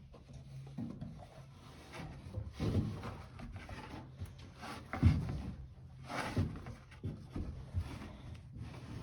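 A person coming down a hanging rope against wooden boards: rubbing and a run of irregular knocks and thumps on wood, the loudest about five seconds in.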